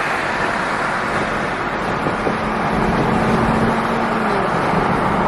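Car on the move at cruising speed: steady engine and road noise, with a low engine note held steady for a couple of seconds in the middle.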